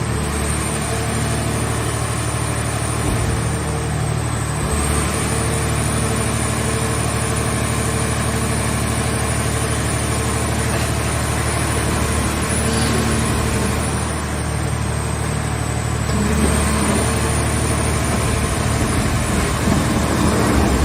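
A mobile car-shell baler's engine running steadily, with a thin high whine that dips briefly twice.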